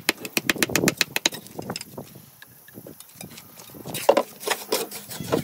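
Quick runs of sharp taps, several a second, of a hand tool on stone during stone-cladding work, with a quieter gap in the middle and the tapping starting again about four seconds in.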